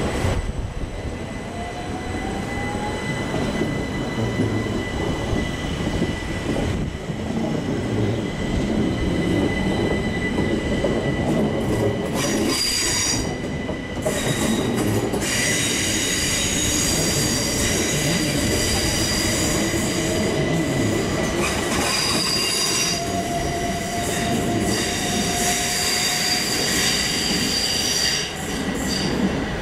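Southeastern Class 375 Electrostar electric multiple unit pulling out and running away round a curve: a rising motor whine in the first few seconds over the rumble of the wheels, then high-pitched wheel squeal on the curve from about halfway through.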